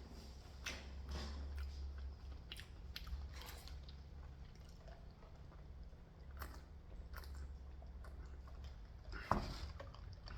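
A person chewing food close to the microphone, with scattered wet mouth clicks and smacks.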